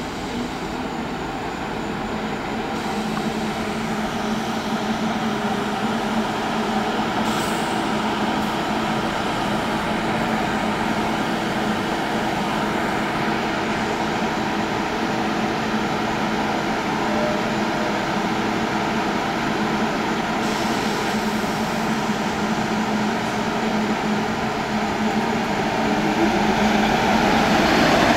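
A Staten Island Railway R44 electric train moving slowly toward the camera, giving a steady hum with a few held tones that grows slowly louder. It gets louder again near the end as the cars come close.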